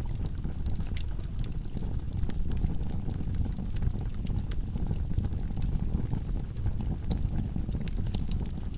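Wood logs burning in a fireplace: a steady low rumble of the fire with frequent sharp crackles and pops scattered through it.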